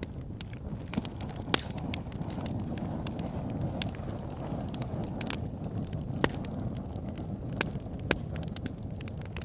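Wood fire burning in a fireplace: a steady low flame rumble with scattered sharp crackles and pops of burning logs, the loudest pops about one and a half seconds in and a few more in the second half.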